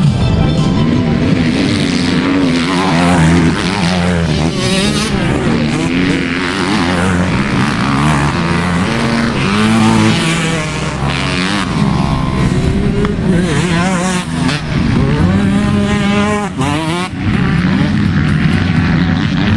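Motocross bikes' engines revving, their pitch repeatedly rising and falling, with several engines overlapping at once.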